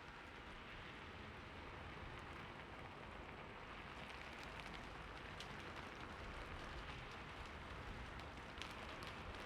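Soft steady rain falling on city surfaces, a low even hiss with scattered faint drop ticks.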